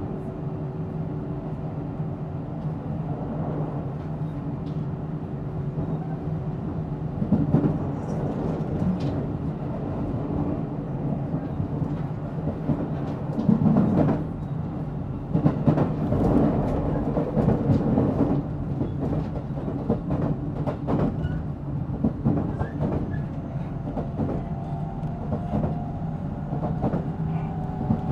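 JR Central 313 series electric train heard from inside motor car MoHa 313-7 while running. The wheels give a steady rumble with steady motor hum, and several louder knocks over the track come about a third and halfway through. Near the end, tones rise in pitch as the train picks up speed.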